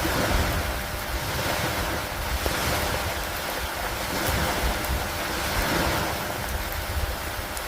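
Storm ambience of rain and wind over lake water: a continuous rushing noise that swells and eases every second or two.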